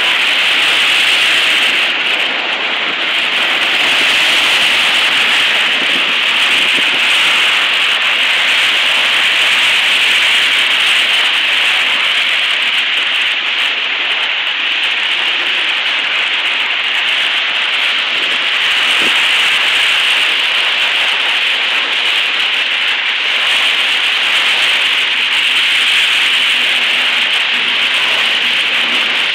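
Steady rushing hiss of floodwater running across and along a flooded street.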